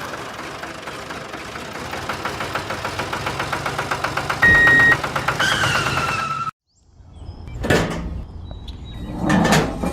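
A motor running with a fast, even pulse that quickens, with a short steady beep and a falling whine in it. It cuts off suddenly after about six seconds, and two swelling whooshes follow.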